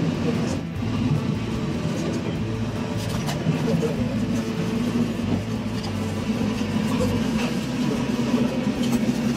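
Electric local train rolling slowly along a station platform as it comes in to stop, a steady rumble and motor hum heard from inside the train.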